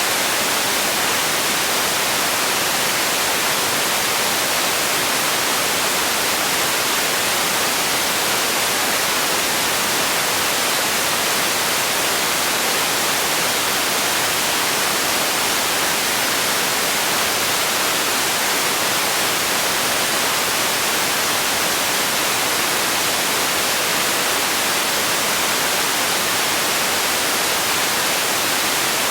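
Steady white noise: an even, unchanging hiss, brightest in the treble with little bass.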